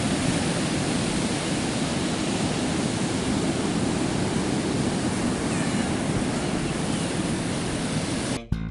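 Steady rush of ocean surf with wind, cut off abruptly about eight seconds in as guitar music begins.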